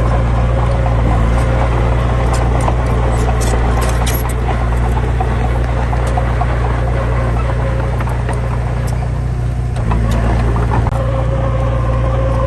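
Heavy diesel engine running steadily under a steady whine, with a brief change in its sound about ten seconds in.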